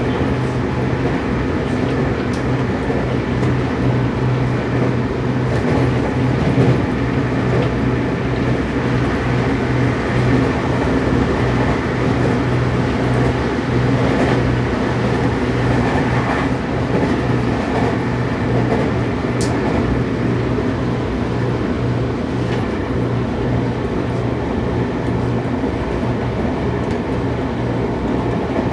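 Seibu 6000 series electric train with Toshiba IGBT inverter running steadily at speed, heard from inside a motor car: an even rumble of wheels on rail with a steady low hum and a few faint ticks.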